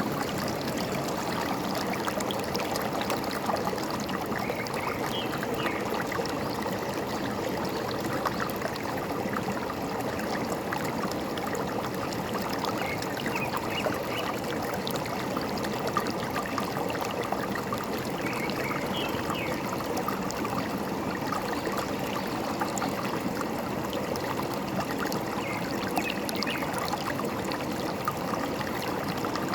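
Forest stream trickling and gurgling steadily, with a few short, faint bird chirps now and then.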